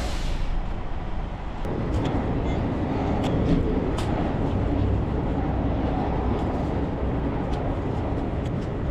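Semi-truck engine running as the truck moves, a steady rumble that grows fuller about two seconds in.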